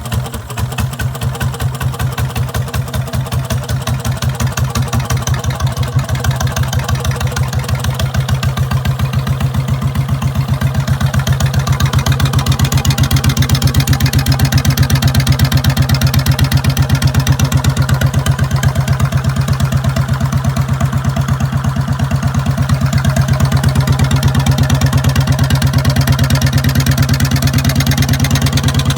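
1957 Cushman engine idling just after a cold start, a steady run of even firing pulses. It gets gradually louder over roughly the first twelve seconds, then holds steady.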